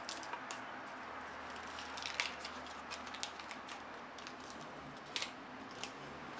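Scattered light clicks and taps of hard plastic being handled, with a couple of sharper clicks about two seconds in and about five seconds in: the Nespresso Pixie's capsule tray and its protective film being worked by hand.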